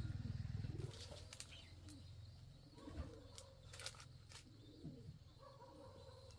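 Faint low bird calls, a series of short rising-and-falling notes, with several sharp clicks. A low hum drops away about a second in.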